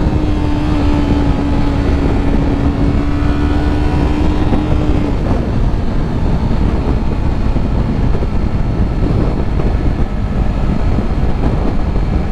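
Yamaha R3 parallel-twin engine at high revs after a full-throttle run, holding a steady drone that eases slightly in pitch and drops away about five seconds in. Heavy wind rush on the helmet microphone runs throughout.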